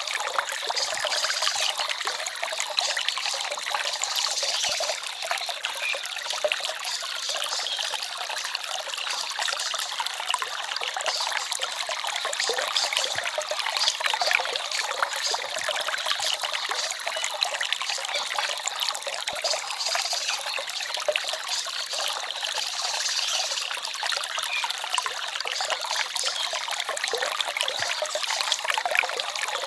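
Small forest stream trickling and babbling over stones, a steady, even splashing with no pauses.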